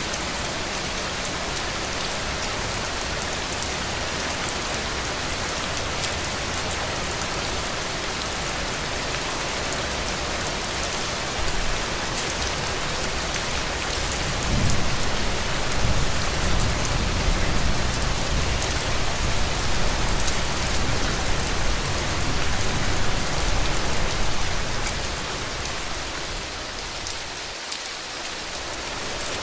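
Heavy rain falling steadily on a roof, an even hiss of drops. About halfway through, a low rumble swells up under the rain for around ten seconds, then fades.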